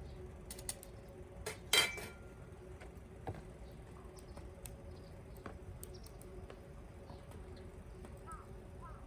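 Aluminium mess tin boiling over a campfire: scattered light ticks and clicks, with one louder knock about two seconds in. A few short bird chirps come near the end.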